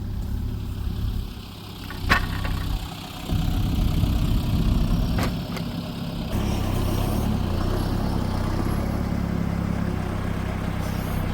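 A farm vehicle's engine runs steadily at low revs, with its load shifting about 3 and 6 seconds in. Two sharp knocks sound about 2 and 5 seconds in.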